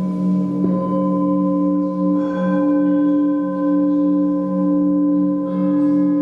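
Several singing bowls ringing together in long, wavering tones. Fresh strikes add brighter overtones about two seconds in and again near the end.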